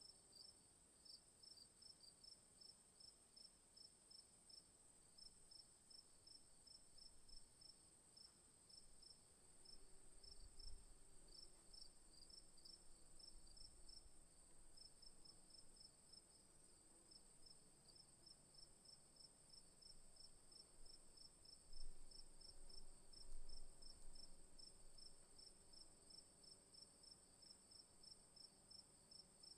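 Faint chorus of chirping insects: a steady high-pitched trill over a lower, evenly pulsed chirping at about three chirps a second. A low rumble swells twice, about ten seconds in and again past twenty seconds.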